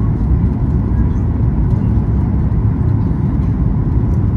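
Steady low rumble and rush of a Boeing 737-8 MAX's engines and airflow heard from inside the economy cabin, with a faint steady whine from the aircraft's systems.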